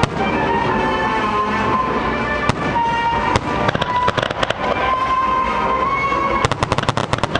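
Aerial fireworks shells bursting, with music playing underneath; a rapid run of bangs near the end.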